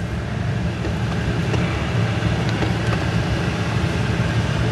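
Four-wheel-drive truck's engine running steadily while driving over a rough dirt track, a low hum mixed with road and body noise and a few light knocks.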